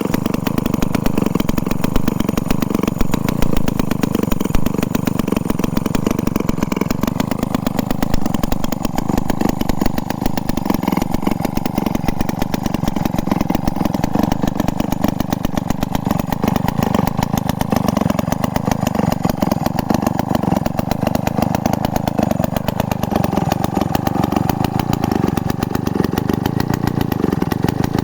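Restored vintage Solo Rex chainsaw's two-stroke engine running steadily at an even speed, a fast unbroken stream of firing pulses.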